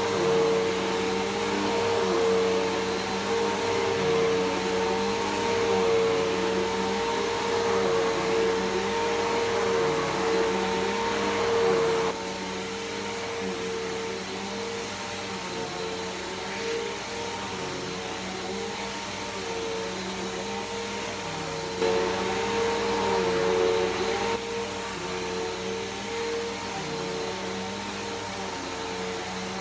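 Bissell PowerForce Helix Turbo upright vacuum cleaner running: a steady motor hum with a clear whine, its tone wavering in repeated swoops. It turns quieter about twelve seconds in, louder again for a couple of seconds a little past twenty seconds, then quieter again.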